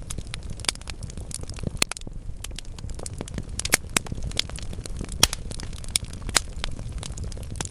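Wood fire burning in a fireplace: logs crackling with frequent sharp pops and snaps over a low steady rumble of flame.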